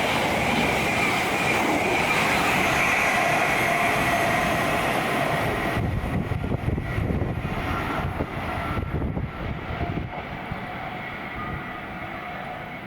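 Fast train passing through at speed: a steady rush of wheels on rail with a faint high ringing tone, the high end cutting off sharply about six seconds in, then a lower uneven rumble that fades away.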